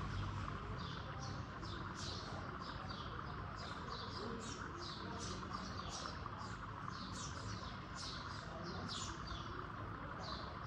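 Small birds chirping: short, high chirps, about three a second, over a steady background hiss.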